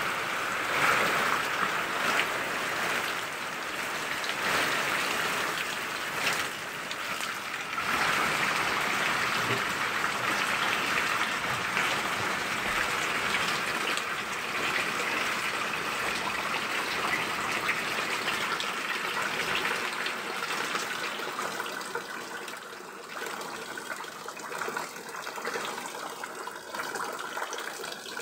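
Heavy rain pouring off a roof edge and running across a wet concrete floor: a steady rushing hiss that eases a little in the last several seconds.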